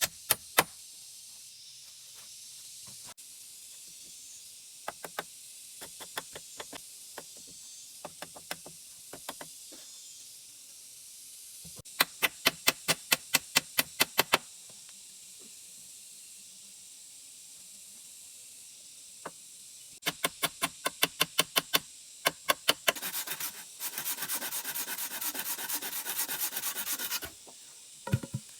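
Hand-tool work on wood: bursts of quick, rhythmic rubbing or scraping strokes at about four a second, then several seconds of continuous rasping near the end. A steady high insect hiss runs underneath.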